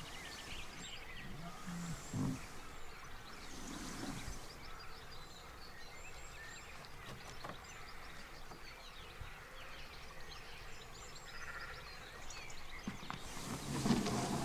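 Outdoor ambience of many small birds chirping and singing, with a couple of brief low knocks and a louder rustle near the end.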